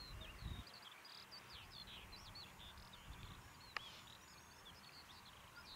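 Faint chorus of birds chirping and twittering: many short, high calls overlapping, with one longer sliding whistle about four seconds in. A low rumble runs underneath.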